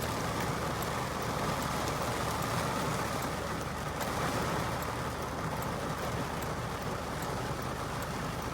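A car running steadily, with an even low rumble and hiss of engine and road noise.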